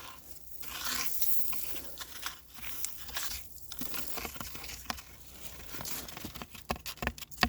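Footsteps crunching and rustling through dry undergrowth and leaf litter, with a quick run of sharp snaps and cracks near the end.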